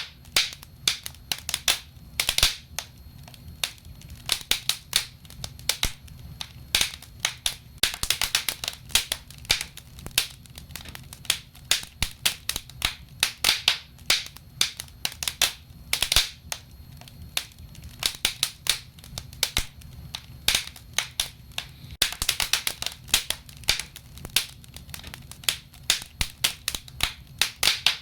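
Wood fire burning in a fireplace, crackling with irregular sharp pops and snaps that bunch into quick flurries every few seconds, over a low steady rumble.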